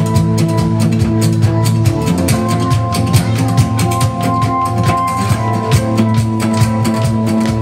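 Live band music: a drum kit keeps a steady beat under bass and held chords.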